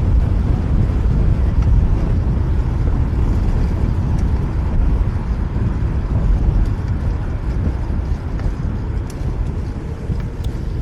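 Steady low wind rumble on the action camera's microphone as a fixed-gear bicycle is ridden through city traffic, with a few faint ticks near the end.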